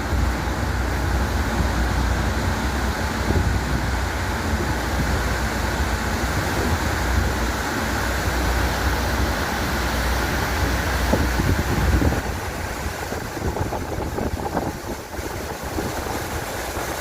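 Wind rushing over the microphone on a moving speedboat, mixed with the boat's engine and the water along its hull. A heavy low rumble eases about twelve seconds in.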